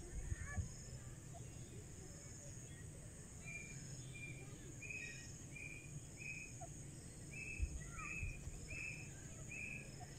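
A grey francolin calling: a run of short, clear notes repeated about every 0.7 seconds, starting about three seconds in. Under it runs a faint steady high-pitched tone, and there are a few low thumps near the start.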